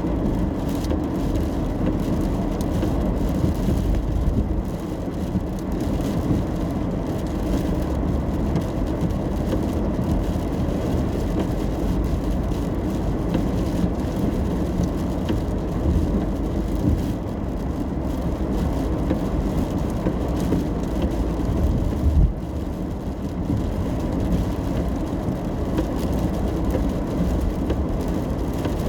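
Car driving in the rain: a steady rumble of road and engine noise with rain hiss over it, and one brief knock about three quarters of the way through.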